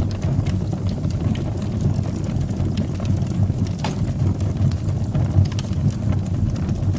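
Wood fire burning in a fireplace: a steady low rumble of flames with scattered small crackles and pops, one sharper pop about four seconds in.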